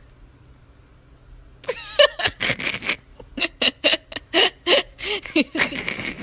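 Laughter: a run of short breathy bursts, a few a second, starting about one and a half seconds in.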